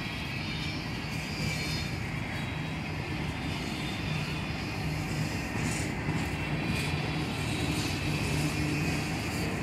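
Freight cars of a slow-moving train rolling past: a steady rumble of steel wheels on the rails.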